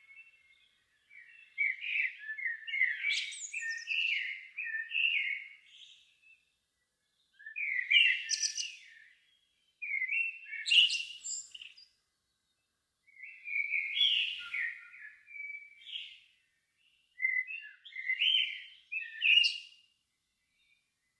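A songbird singing in five phrases of about two to five seconds each, warbled notes with brief higher squeaky notes, and pauses of about a second between phrases.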